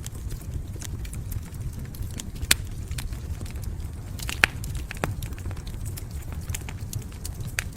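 Fireplace fire burning with a steady low rumble and irregular crackles and pops, two of them sharper, about two and a half and four and a half seconds in.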